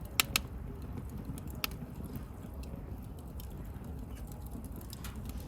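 Wood bonfire crackling: a steady low rumble of the flames with scattered faint ticks, two sharp pops close together near the start and another about a second and a half in.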